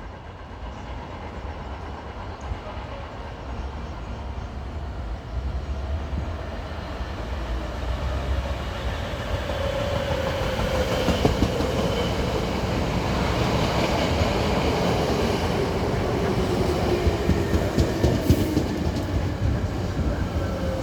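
Hankyu 5300-series electric commuter train pulling into a station, growing steadily louder as it approaches. Its wheels click over rail joints, and a whine falls steadily in pitch as the train slows to a stop.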